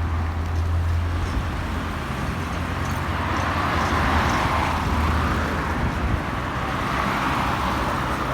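Scania city bus running on the road: a low engine hum, strongest in the first second or so, under tyre and road noise that swells and eases twice.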